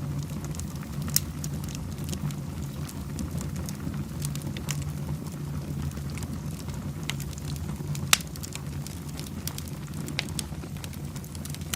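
Wood fire burning in a fireplace: a steady low rumble of flame with scattered sharp crackles and pops. The two loudest pops come about a second in and about eight seconds in.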